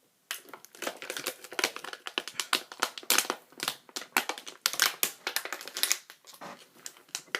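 Plastic snack packaging crinkling as it is handled: a dense run of crackles that thins out about six seconds in.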